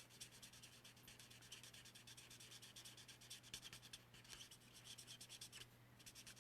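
Felt-tip alcohol marker (Stampin' Blends) colouring quickly on cardstock: faint, rapid scratchy strokes, several a second, over a steady low hum.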